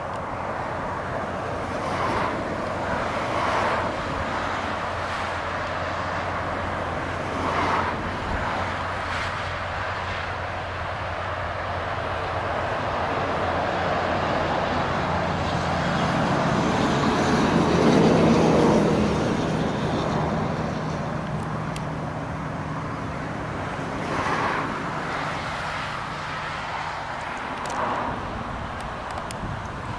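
A motor vehicle passing, its engine and tyre noise building to a peak about eighteen seconds in and then fading, over a steady outdoor background.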